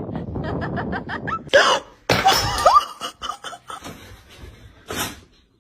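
A person laughing in quick, evenly spaced bursts, followed by a few short gasps and vocal bursts, one of them rising in pitch.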